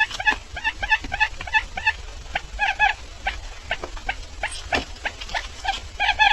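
Barred buttonquail calling: short chirps repeated several times a second in irregular runs, some doubled.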